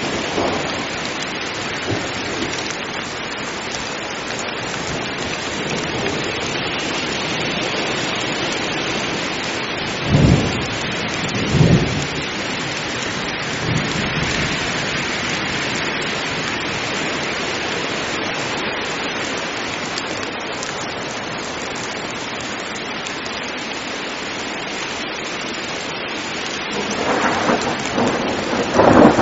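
Heavy rain falling steadily, with sudden thunder claps: two short sharp ones about ten and twelve seconds in, and a further run of cracks near the end.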